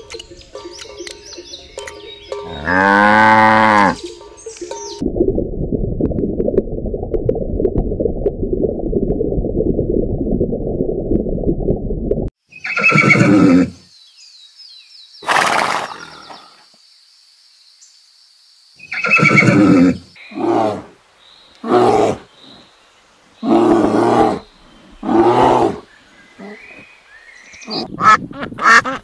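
A sequence of farm animal calls: a cow's long moo with a low, falling pitch, then several seconds of low rumbling noise that cuts off suddenly, then a string of about eight short, loud animal calls.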